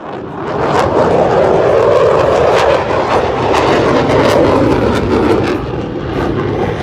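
Airplane flying over, a loud steady engine noise without a clear pitch that cuts in abruptly and swells over the first second.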